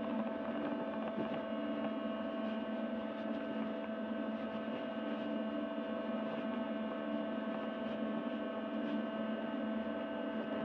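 A steady hum of several held tones over a light hiss, unchanging in pitch and level.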